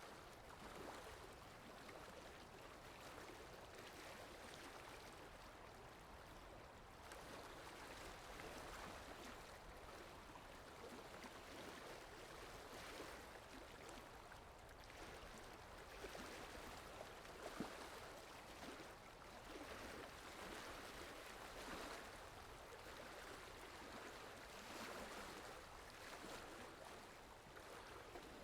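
Faint, steady rushing of flowing water from a stream or waterfall, a soft even hiss that swells and ebbs slightly. One brief sharper sound comes about two-thirds of the way in.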